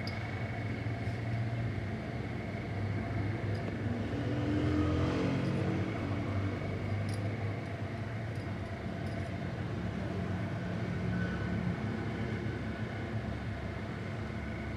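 Toyota Corolla engine running steadily, revved up briefly about four to six seconds in, during tappet adjustment to cure its noise and misfire.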